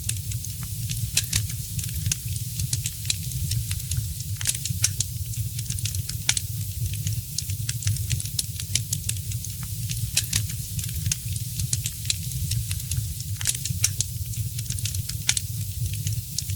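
Wood fire crackling: frequent sharp, irregular pops and snaps over a steady hiss, with a constant low rumble underneath.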